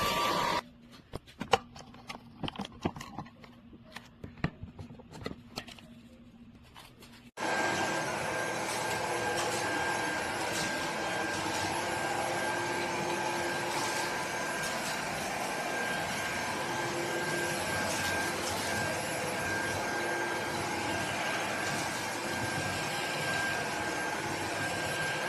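iXlion cordless stick vacuum: a few seconds of scattered clicks and handling taps, then its motor switches on abruptly about seven seconds in and runs steadily with a constant high whine.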